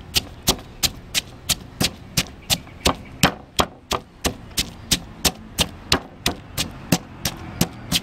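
Garlic being pounded with a pestle in a mortar: a steady run of sharp knocks, about three strikes a second.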